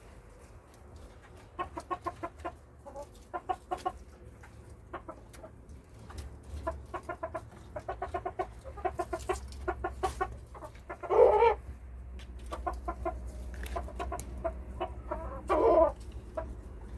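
Chickens clucking in a coop: runs of short, quick clucks, broken twice by a louder, longer call, once about eleven seconds in and again near the end.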